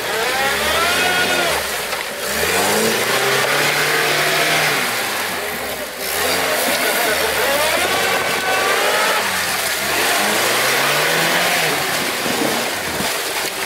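Lada Niva's engine revving hard in several long surges, its pitch climbing and falling again and again as the wheels spin and claw through deep mud, with a steady hiss of churning mud and spray.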